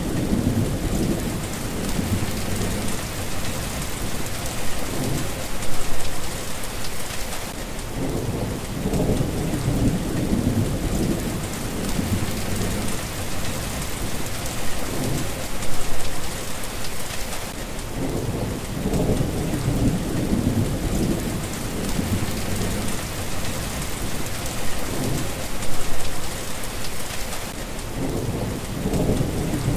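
Steady rain falling, with low rolls of thunder swelling and fading about every ten seconds.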